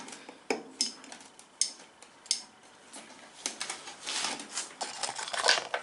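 Aerosol paint cans being handled: a few sharp clicks and knocks, then about two seconds of dense, sputtering clatter as a can whose nozzle keeps blocking is tried.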